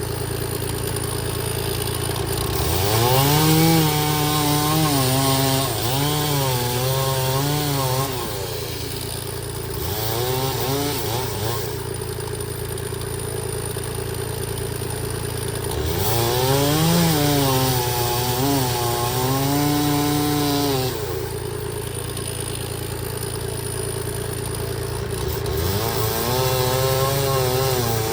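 Stihl chainsaw revved up from idle four times, about every six to eight seconds, and held at high revs for a few seconds each time. The pitch sags and wavers under the load of cutting through logs, then drops back to idle between cuts.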